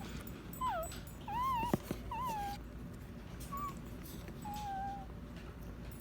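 Six-day-old Golden Retriever puppy whimpering: a string of thin, high wavering squeals, the loudest in the first two seconds, then a longer, fainter cry near the end.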